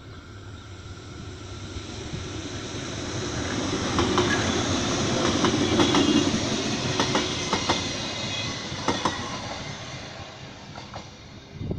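Metre-gauge electric passenger train passing close by over a level crossing. Its wheels run on the rails, swelling to a peak midway and fading out. A run of sharp clicks sounds as the cars go over the rail joints.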